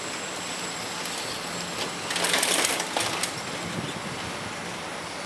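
25Z passenger coaches of a through train rolling past at a distance, with a steady wheel-and-rail noise. About two seconds in, it swells for roughly a second into a louder hiss and rattle.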